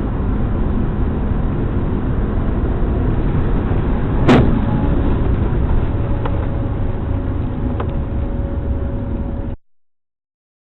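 Dashcam recording of a car on the road: steady road and engine rumble, with one sharp loud bang about four seconds in, typical of a collision. A faint steady tone follows, and the sound cuts off abruptly near the end.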